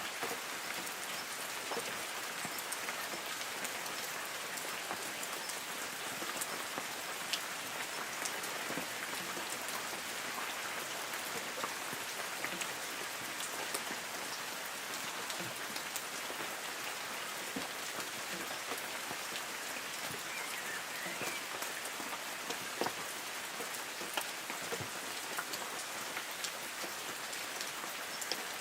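Light rain falling steadily on forest trees: a dense, even hiss with many separate drops ticking through it.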